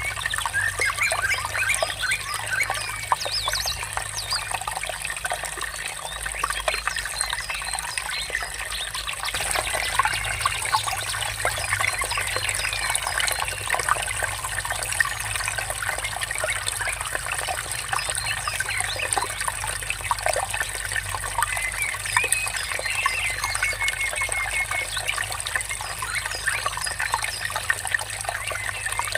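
A stream trickling and babbling steadily, with small birds chirping and calling over it in short notes throughout.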